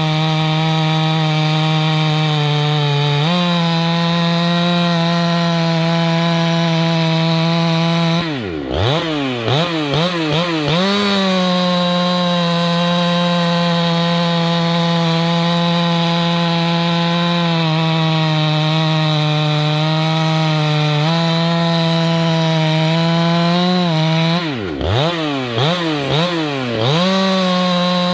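Husqvarna 390XP two-stroke chainsaw engine running steadily at high revs. Twice, about a third of the way in and again near the end, the revs drop sharply and surge back up several times in quick succession before settling high again.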